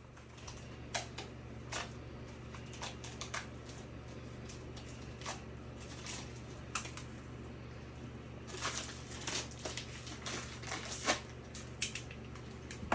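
Irregular small clicks and crackles of a dog chew's packaging being opened by hand, busier in the second half, over a steady low hum.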